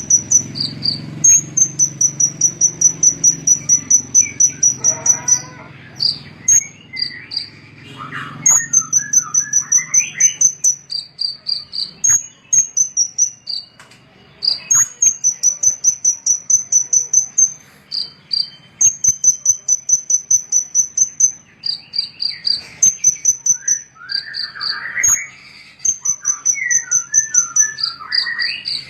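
Small songbird singing a fast, high-pitched trill of about eight notes a second. The trill comes in phrases of about two seconds, repeated again and again, with short lower notes between the phrases.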